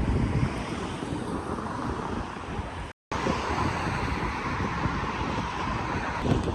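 Wind buffeting the microphone outdoors, a dense low rumble, cut off briefly about three seconds in where two clips are joined.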